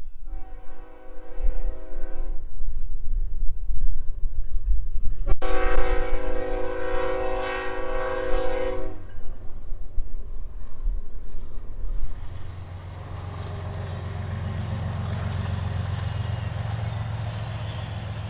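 Freight train's diesel locomotive sounding its air horn twice, a short blast and then a longer one of about three and a half seconds, over a low engine rumble. About twelve seconds in, the horn is done and a steady locomotive engine drone with rail noise takes over as the train runs by.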